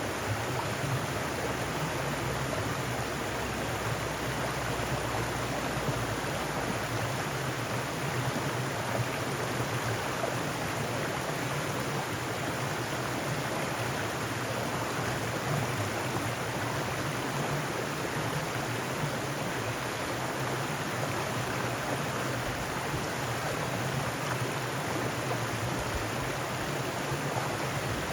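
Mountain stream running over rocks, a steady even rush of water.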